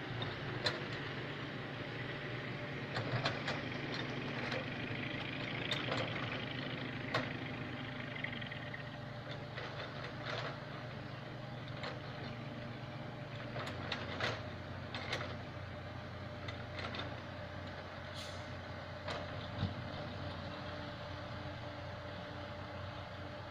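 Komatsu PC70 tracked excavator's diesel engine running, with a strained higher whine for the first third that then eases to a steadier hum. Scattered knocks and clanks run through it.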